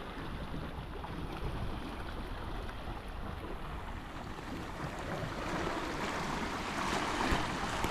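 Sea water washing and splashing around a kayak, with wind rumbling on the microphone; a louder wash of water swells up about five seconds in.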